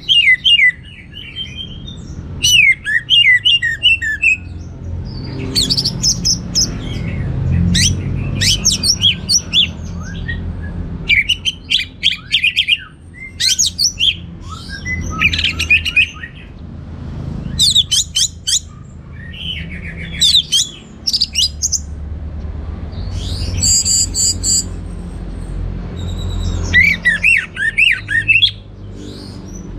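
Orange-headed thrush (anis merah) singing a long run of quick, varied phrases of chirps, trills and sweeping whistles, separated by short pauses, over a steady low rumble.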